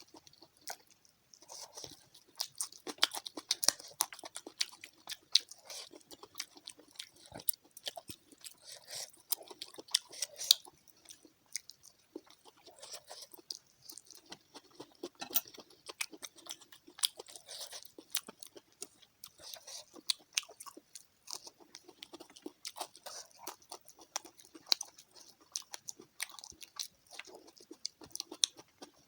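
Close-up chewing and crunching of crispy fried fish, with irregular crackly bites and mouth noises throughout.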